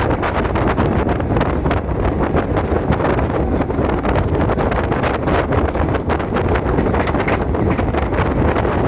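Wind buffeting the microphone over the steady running noise of a moving train, with many short crackles and knocks throughout.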